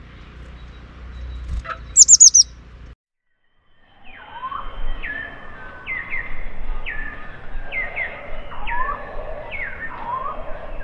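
Bird calls: about two seconds in, a quick burst of four loud, high chirps, each falling in pitch. After a second-long gap, a run of repeated calls begins, roughly one a second, each sweeping downward, with lower rising notes between them.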